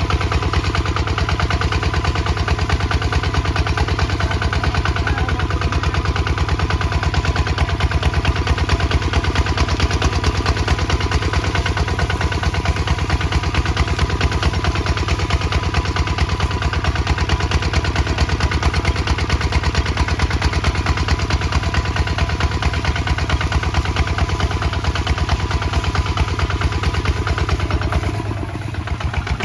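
Kubota ZT155 DI single-cylinder diesel engine running steadily with a fast, even beat, its level dipping briefly near the end.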